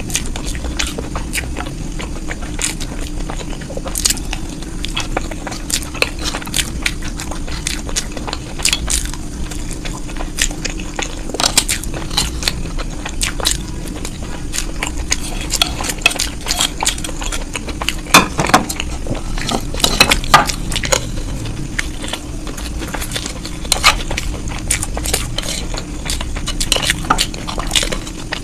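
Eating at a table: cutlery clicking and scraping against a plate in many quick, irregular clicks, mixed with biting and chewing, over a steady low hum.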